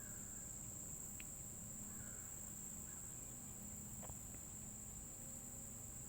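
Insects trilling steadily outdoors, one continuous high-pitched drone, with a couple of faint ticks.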